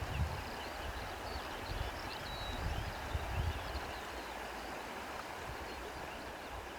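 Steady rush of a flowing stream, with faint bird chirps and a few low rumbles in the first half.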